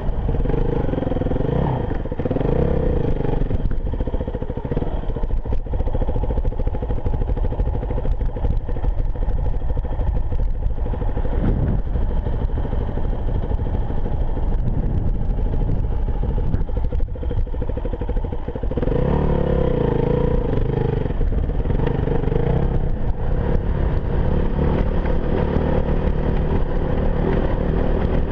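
Enduro motorcycle engine running while riding, with the revs rising and falling in the first few seconds and again about two-thirds of the way through.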